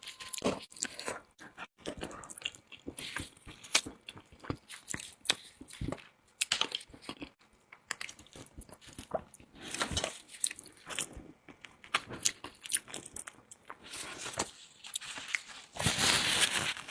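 Close-miked eating: biting and chewing with crunches and wet smacks at an irregular pace, and a louder noisy stretch near the end.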